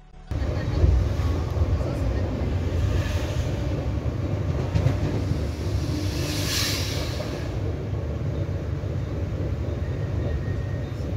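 Running noise of a double-deck electric commuter train as heard from inside the upper deck of a moving carriage: a steady low rumble that starts suddenly, with a brief rush of hiss about halfway through.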